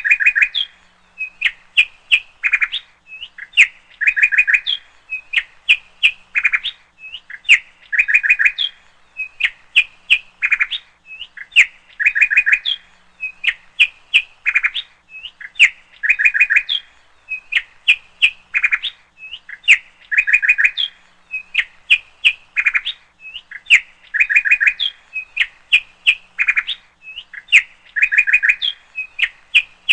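Small birds chirping in quick, high trills and single calls. The same pattern of calls repeats about every four seconds, like a looped recording.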